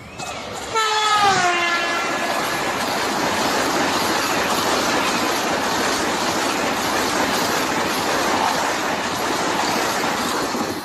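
A high-speed electric train sounds one horn blast as it approaches. The horn's pitch drops as it ends, about a second and a half in. The train then passes close by at speed with a loud, steady rush of wheels on rail and wind.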